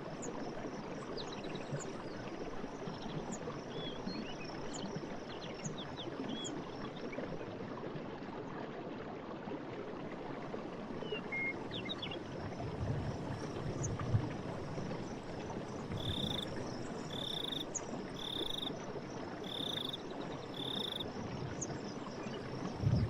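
Steady rush of running water in a forest, with small birds giving scattered short chirps. Past the middle, one call is repeated five times at about one a second.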